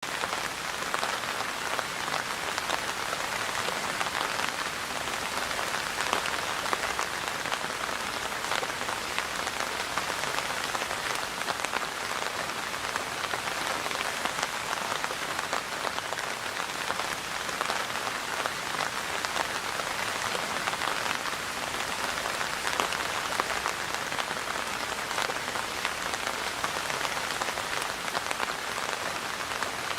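Steady rain falling, a dense, even patter of many drops that holds the same level throughout.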